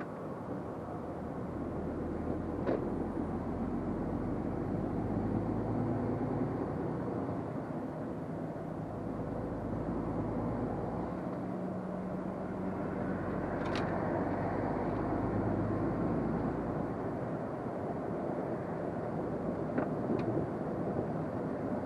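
Truck engine running under way with road noise, heard from inside the cab, steady throughout, with a few light clicks.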